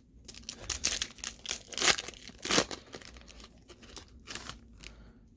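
Foil wrapper of a trading card pack torn open and crinkled: an irregular run of sharp rips and crackles, loudest about two and a half seconds in.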